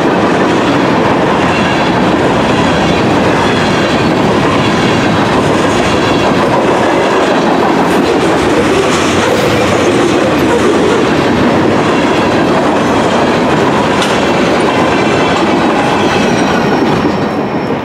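Mixed freight train of covered hoppers, boxcars and tank cars rolling past, its steel wheels clacking steadily over the rail joints. The sound fades slightly near the end as the last car goes by.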